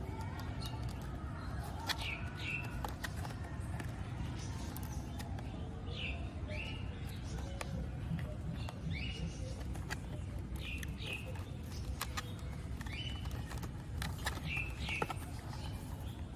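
A small bird chirping over and over, mostly two short notes at a time every couple of seconds, over a steady low rumble of distant traffic, with a few faint clicks.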